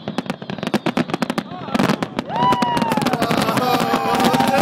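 Fireworks going off in rapid succession, a dense run of bangs and crackles that grows louder about two seconds in. From there, long drawn-out whooping voices rise and fall over the bangs.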